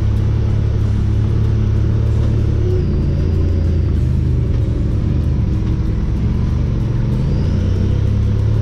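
Honda Pioneer 1000 side-by-side's engine running steadily at low trail speed, its pitch dipping and rising slightly a few times as the throttle changes.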